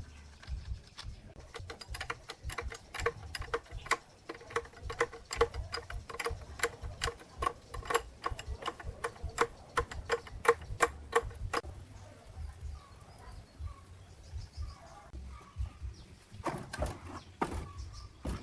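Rapid metal-on-metal strikes, about three a second, each with a short ring, kept up for about ten seconds. A few heavier strikes follow near the end.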